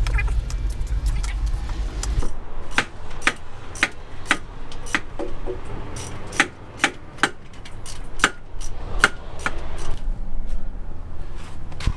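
A string of sharp, irregular taps and knocks, a few a second, like hand tools striking metal during work on an exhaust header install, with a low rumble for the first couple of seconds.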